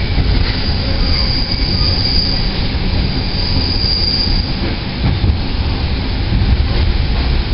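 Alaska Railroad passenger train running on the rails, heard from aboard: a loud, steady low rumble of the cars, with a thin, high metallic squeal from about a second in to around four and a half seconds.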